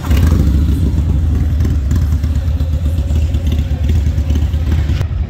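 Motorcycle engine running close by: a steady, low, rapid-pulsing rumble that starts abruptly.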